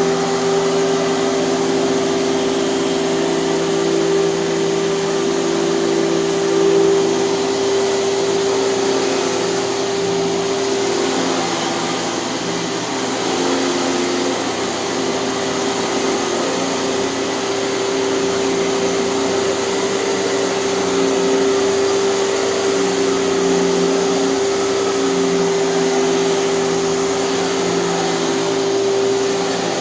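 Hoover canister vacuum cleaner running steadily with a constant motor whine and airflow rush.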